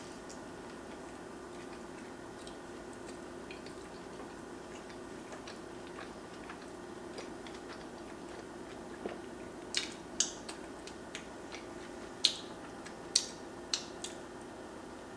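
Close-up chewing of a mouthful of roasted chicken sandwich, with small soft mouth clicks. From about ten seconds in comes a run of sharp, wet smacks as sauce-covered fingers are licked.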